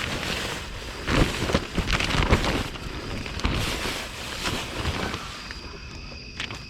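Wind buffeting the microphone, with its strongest gusts between about one and two and a half seconds in, then easing off.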